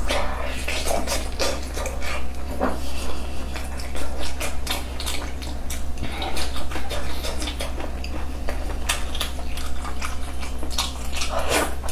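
Close-miked eating of soft braised pork belly and glass noodles: wet chewing and lip-smacking with many short clicks, over a steady low hum.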